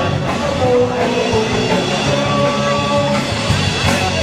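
Rock music with drums and electric guitar playing steadily.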